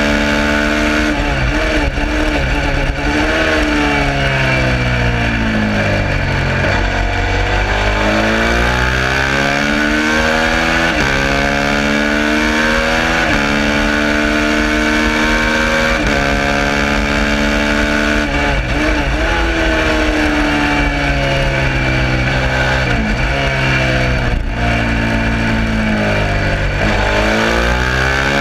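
Suzuki SV650 90-degree V-twin racing engine at full throttle on track, its pitch climbing through each gear, dropping at the shifts and falling away under braking before rising again, over a steady rushing noise.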